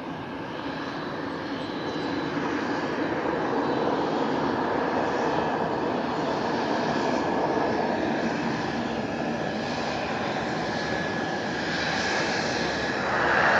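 Airplane engine noise building as an aircraft approaches, then holding steady and swelling louder again near the end.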